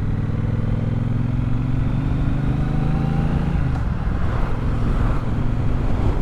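Triumph Bobber's 1200 cc parallel-twin engine pulling along the road, its note rising slightly. About three and a half seconds in the engine note drops away and wind rush over the microphone takes over.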